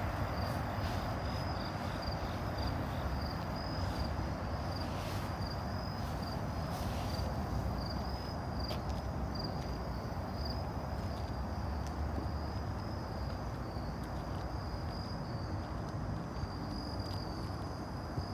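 Steady high-pitched insect trill, a continuous pulsing chirr, over a low rumbling background noise with a few faint clicks.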